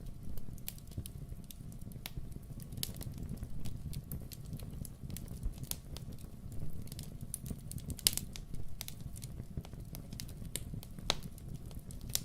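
Wood fire in a fireplace crackling, with irregular sharp pops. Louder ones come about eight and eleven seconds in, over a steady low rumble.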